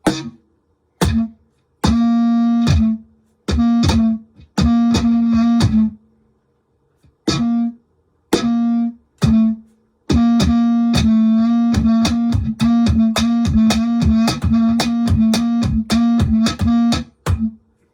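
Laptop cajon hits run through a Digitech BP355 multi-effects pedal, each slap turned into a short, pitched, twangy tone that stops dead between hits. Scattered groups of strikes come first, then a fast, steady run of hits through the second half.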